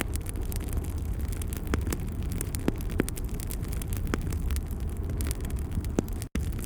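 Wood fire in a fireplace crackling, with a steady low rumble of the flames and frequent sharp pops and snaps, a handful of them louder. The sound cuts out for an instant near the end.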